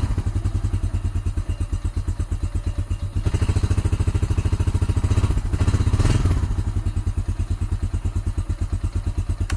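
Honda Rancher TRX350 ES ATV's single-cylinder four-stroke engine idling with an even, rapid firing beat, running a little louder for about three seconds in the middle. It has just started on a newly fitted starter motor.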